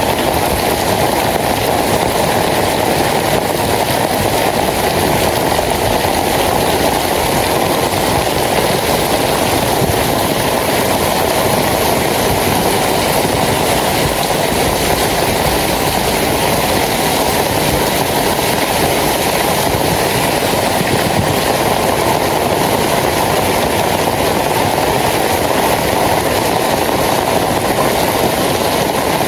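Rain falling steadily, a dense unbroken hiss.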